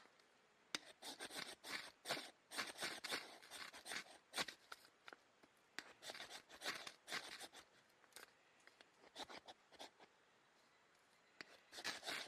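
Irregular rustling and scraping handling noises, a run of short crisp strokes with brief pauses.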